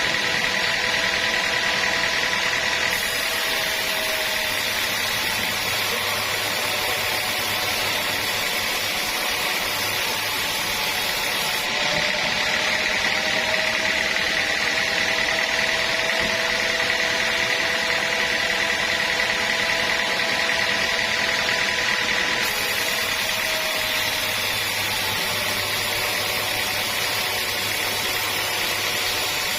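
Sawmill saw running steadily, a continuous mechanical noise with a high, even whine and a few lower steady tones.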